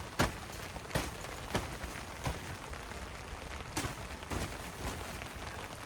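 Steady rain falling, with about seven sharp taps or knocks at irregular intervals.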